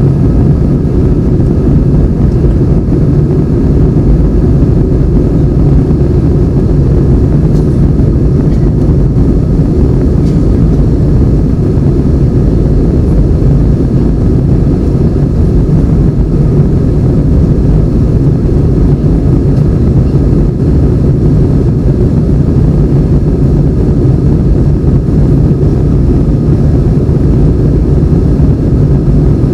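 Airbus A320 cabin noise in flight: the steady drone of the engines and rushing air, loud and even throughout, heard from inside the cabin during the climb.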